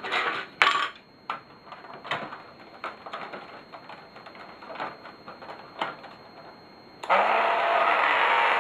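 Hard plastic parts clicking and knocking as they are handled and pried at. About seven seconds in, a small power tool starts up and runs steadily, cutting away the plastic centre console of the model truck body.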